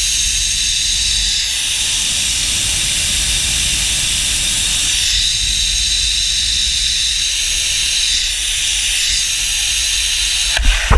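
Zipline trolley pulleys running fast along the steel cable with a steady high hiss, and wind rumbling on the microphone. Near the end come a few knocks, and the running sound cuts off suddenly.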